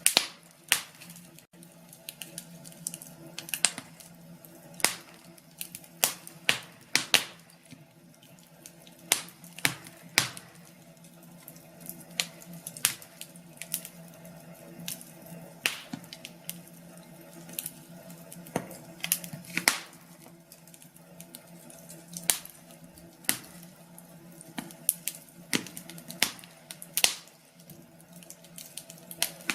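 Wood fire crackling in a fireplace: irregular sharp pops and snaps, some louder than others, over a faint steady low hum.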